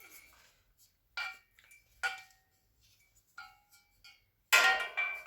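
Metal shelf rails and parts knocking and clinking together as they are handled and fitted: several separate knocks, each with a short metallic ring, and the loudest clatter near the end.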